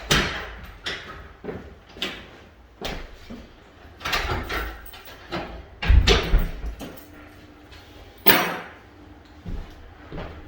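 A series of irregular knocks and bangs in a small room, about one every second, the loudest about six and eight seconds in.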